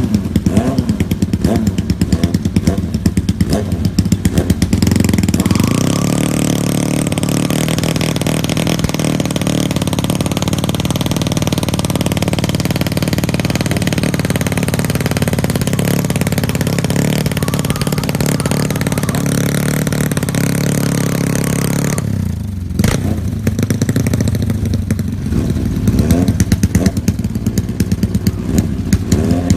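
Superbike engines revving in short, choppy bursts. About five seconds in they settle into a long, steady high-revving run. Near the end they break off briefly and go back to choppy bursts.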